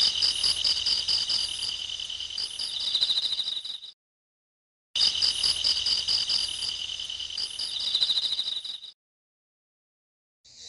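A dense night chorus of crickets and grasshoppers: rapid high chirping pulses over a steady shrill trill that swells near the end of each pass. Two identical stretches of about four seconds each, both cut off abruptly into dead silence.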